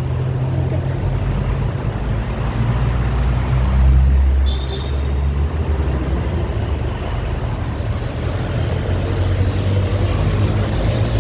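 Street traffic: a motor vehicle's engine running close by, a steady low hum that swells to its loudest about four seconds in as it passes. A brief high squeal follows just after.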